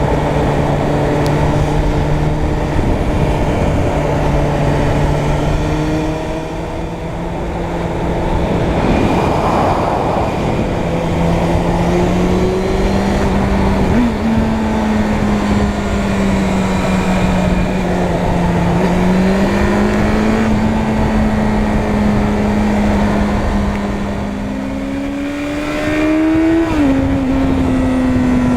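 Suzuki Bandit 600 N's inline-four engine running under way, its pitch rising and falling with the throttle, over a steady rush of wind noise. Near the end the engine climbs in pitch, then drops sharply as the rider changes up a gear.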